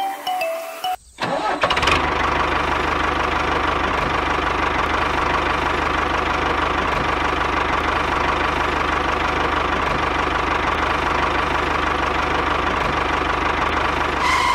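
Tractor engine starts about a second in, then runs steadily at an even pace with a low, pulsing beat. Brief mallet music plays before it starts.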